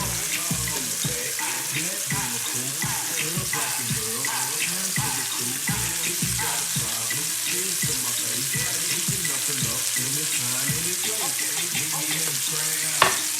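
Food sizzling steadily in a hot frying pan, with background music. There is a single sharp knock near the end.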